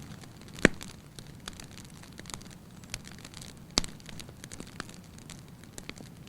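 Wood fire burning in a fireplace, crackling steadily with scattered small snaps and two sharp loud pops, one about a second in and one near the middle, over a low soft rumble of the flames.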